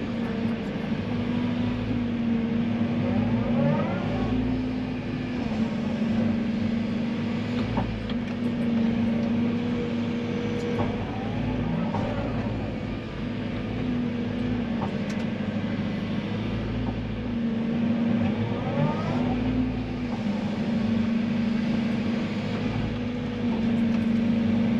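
Tracked digger's diesel engine running steadily under load while digging sand and soil, with rising and falling hydraulic whines several times as the boom and bucket move, and a few scattered knocks.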